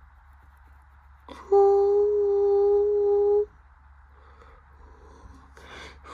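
A person humming one long, steady note for about two seconds, with an audible breath just before it and another breath near the end.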